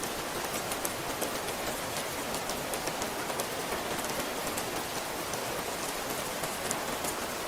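Steady rain falling: a dense, even hiss with many sharp individual drop ticks scattered through it.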